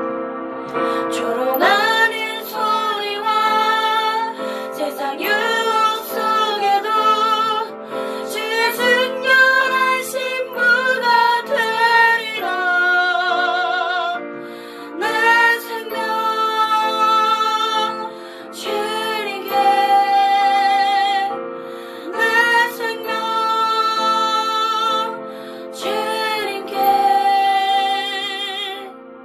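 A woman singing a Korean worship song in long phrases with wide vibrato, over sustained piano chords.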